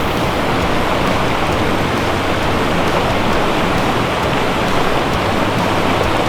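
Small mountain creek's water rushing and splashing over rocks, a steady even noise.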